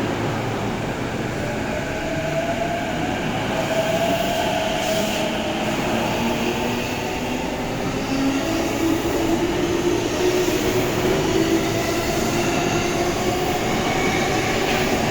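E233 series electric train pulling away, its traction motors whining in tones that climb slowly as it gathers speed, over steady running noise from the wheels and rails.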